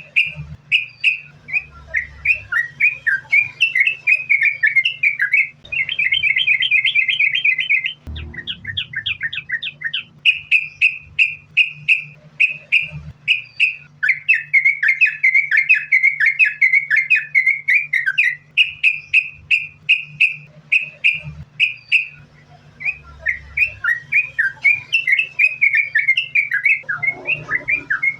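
Yellow-vented bulbul (trucukan) singing continuously: rapid runs of short repeated notes, with several longer fast chattering trills strung one after another, over a faint steady low hum.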